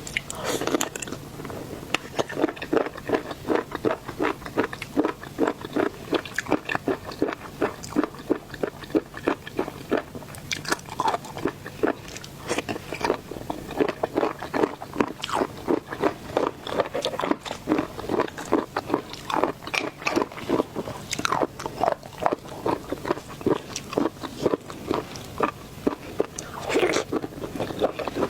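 Close-miked mouth chewing and crunching of seafood: a quick, steady rhythm of wet, crunchy bites that runs without a break.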